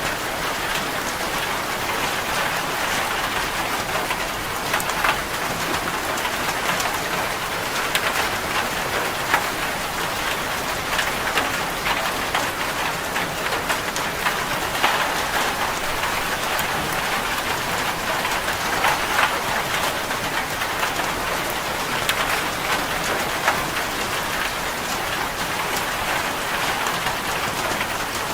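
Steady rain on a corrugated zinc roof: a dense, even patter with many individual drops ticking sharply on the metal.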